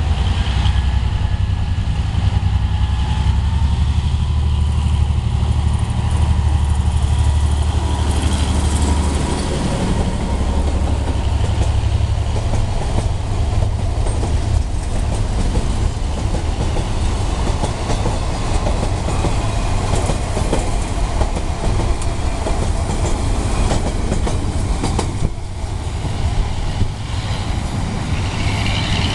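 Freight train passing: the EMD G22CU diesel locomotive's engine drones low and steady for the first nine seconds or so. Then eleven covered freight wagons roll by, their wheels clattering over the rail joints.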